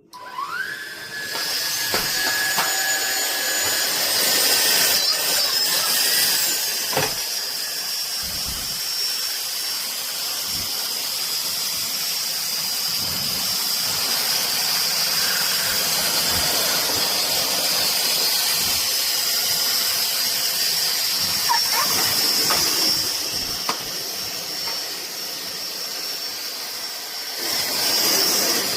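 SunSare cordless stick vacuum switched on: its motor whine rises as it spins up, then runs steadily as a high whine over rushing air. The sound drops a little for a few seconds near the end, then comes back up.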